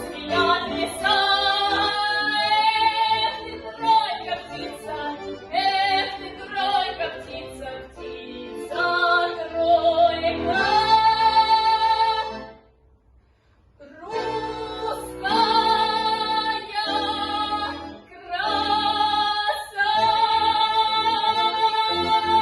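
Woman singing a Russian song solo, with instrumental accompaniment. About halfway through the sound drops away for a second or two, then she comes back in and holds a long, steady high note near the end.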